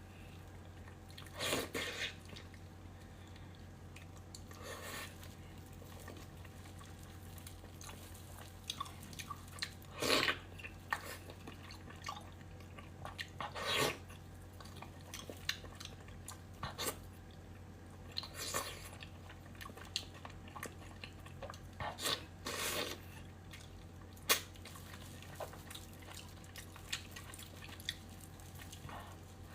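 Close-miked eating: a person chewing and biting, with short wet mouth sounds every few seconds between quieter pauses, over a steady low hum.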